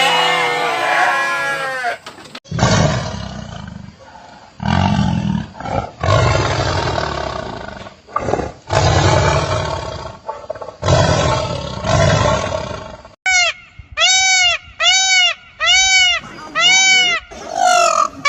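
A tiger roaring repeatedly: about five long, deep, rough roars. They are followed by a run of about seven short, evenly spaced calls that rise and fall in pitch. A bleating chorus fades out just before the first roar.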